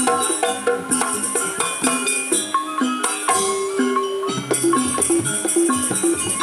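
Javanese gamelan-style music accompanying a jaranan barong dance: tuned metal percussion playing short repeated notes over drum strokes, with a bright, constant jingling on top.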